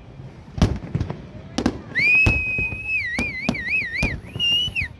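Fireworks going off in several sharp booms. From about two seconds in a high whistling tone sounds, held steady, then warbling up and down, with a shorter rising-and-falling whistle near the end.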